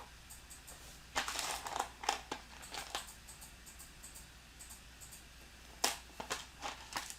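Small plastic building pieces clicking and rattling as they are rummaged through by hand, in two short spells of clatter.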